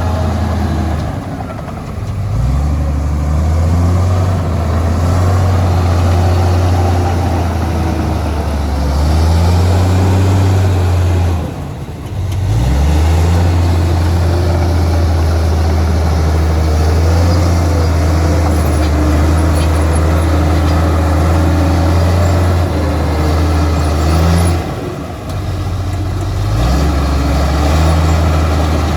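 Heavy diesel engine of earthmoving machinery running under load, a steady low drone whose pitch shifts as the load changes. It drops off briefly three times: about two seconds in, near the middle, and near the end.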